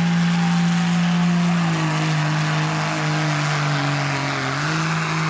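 Diesel pulling truck's engine running hard at high revs. Its pitch drops about two seconds in, sags lower for a couple of seconds, then picks back up near the end.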